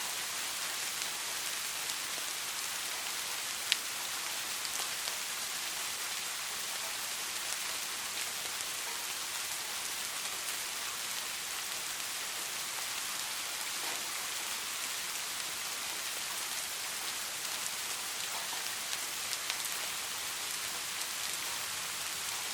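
Steady rain falling as an even hiss, with scattered ticks of single drops; one sharper drop hit nearly four seconds in.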